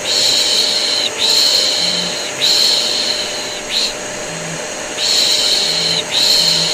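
Rhythmic "shh" shushing for soothing a baby, long hisses about a second each in a run of three, a short pause, then two more, over the steady hum of a vacuum cleaner running as white noise.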